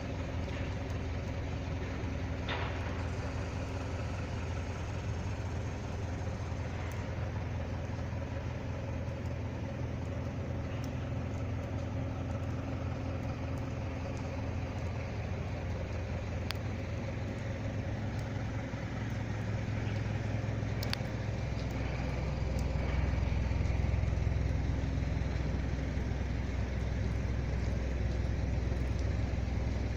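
A vehicle engine running steadily, its low hum growing louder about two-thirds of the way in, with a few faint ticks.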